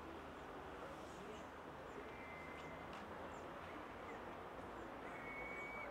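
Faint outdoor background noise with scattered short, high bird chirps, and two held high whistle-like notes, one about two seconds in and one near the end.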